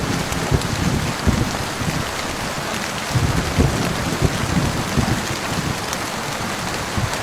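Heavy rain falling steadily, with low rumbling thunder swelling twice, near the start and around the middle.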